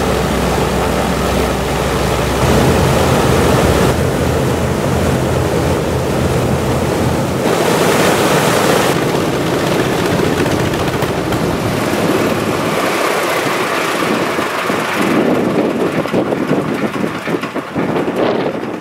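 PB4Y-2 Privateer's Pratt & Whitney R-1830 Twin Wasp radial engines running on the ground, a loud steady drone with a rushing propeller blast and wind on the microphone. The low engine note weakens about seven seconds in and has mostly faded by two-thirds of the way through, leaving mainly the rushing noise.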